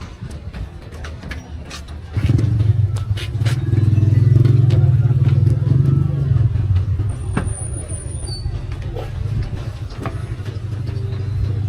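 A motor vehicle engine running close by: a low rumble comes in suddenly about two seconds in, is loudest a few seconds later, then settles a little lower. Scattered knocks and clatter from the street run underneath.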